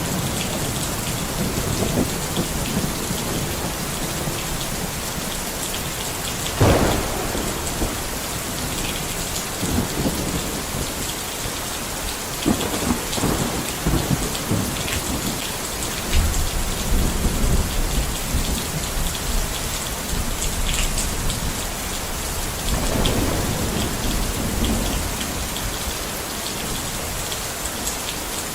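Steady heavy rain falling, with thunder: a sharp crack about six seconds in, then long rolling rumbles in the middle and again near the end.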